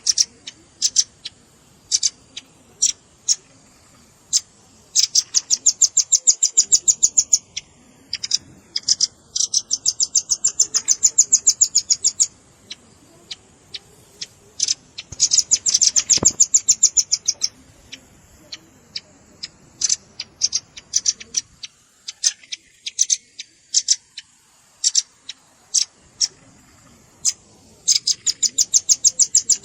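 Velvet-fronted nuthatch calls from a bird-lure recording: sharp, high chips, some single and some run together into fast rattling trills lasting one to three seconds.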